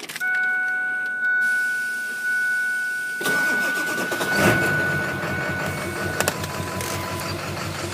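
A diesel pickup's dash warning chime sounds as a steady tone while the key is on. About three seconds in, the engine cranks and fires, then settles into an even idle, with the chime stopping a few seconds later.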